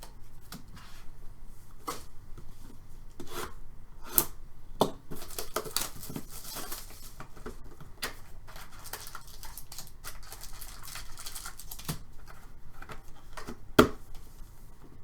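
Trading-card packs and wrapping being torn open and cards handled: tearing and rustling with scattered sharp clicks and taps, the sharpest near the end.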